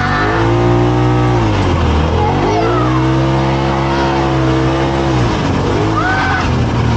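Side-by-side UTV engine under way, revving up and holding steady, easing off about two seconds in, then climbing again and holding for a few seconds before dropping back.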